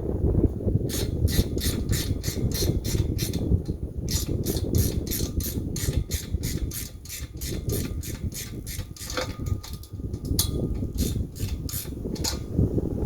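Socket ratchet wrench clicking as a bolt is turned, in runs of about four clicks a second with short pauses between strokes.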